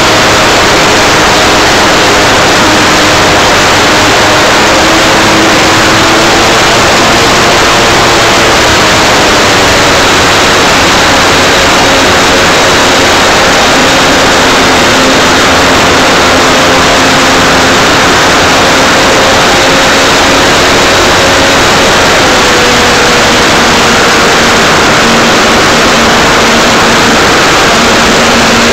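Electric motor and propeller of an Art-Tech Cessna 182 RC model plane in flight, heard from a keychain camera on its nose: a loud rush of wind and prop wash over a motor hum whose pitch shifts a couple of times as the throttle changes.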